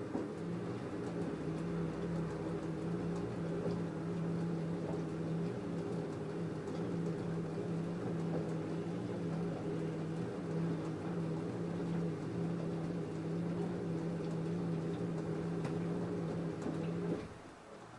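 LG F10A8HDS5 direct-drive washing machine motor turning the drum with its load during the cotton wash, a steady hum that cuts off abruptly near the end as the drum stops.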